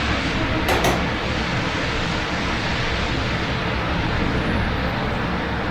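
Steady rain and city traffic noise with a low rumble underneath. Just under a second in there is a brief, sharp double tick.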